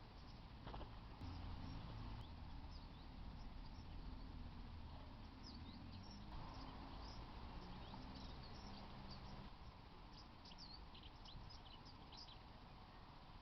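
Faint birdsong: quick, high chirps from small birds, coming thickly from about five seconds in, over a low steady rumble.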